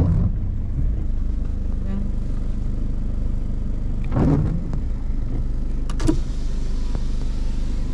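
Steady low rumble of a car's engine and tyres heard from inside the cabin while driving, with a brief louder sound about four seconds in and a click about six seconds in.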